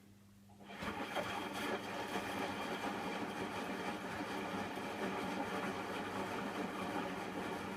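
Hotpoint washing machine starting up about a second in and then running steadily with a dense mechanical rattle and hum, in the last few minutes of its cotton cycle.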